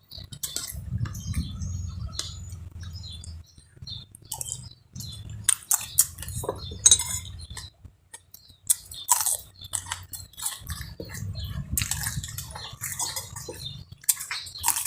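Kitchen utensils clinking and scraping against dishes and bowls in irregular clicks, with low handling rumbles in stretches.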